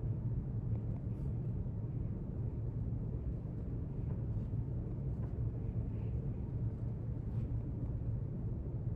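Steady low rumble of library room ambience, with a few faint, brief ticks scattered through it.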